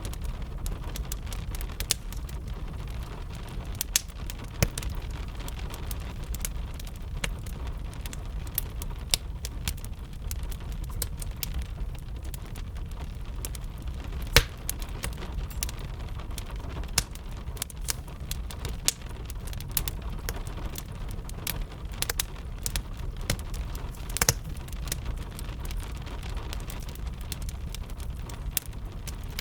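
Wood fire crackling, with irregular sharp pops scattered throughout, a few louder than the rest, over a steady low rumble of rain.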